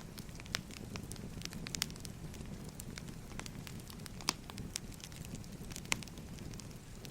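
Wood fire burning: a steady low rumble of flames with irregular sharp crackles and pops from the burning logs, two of them louder, in the middle and about six seconds in.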